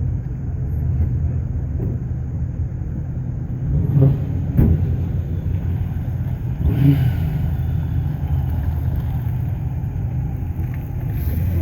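Car engine running, a steady low rumble, with brief louder moments about four and seven seconds in.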